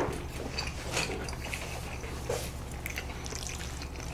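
Wet chewing and mouth sounds of people eating fried pork cutlet and noodles: scattered small smacks and clicks, one sharper click at the very start, over a low steady hum.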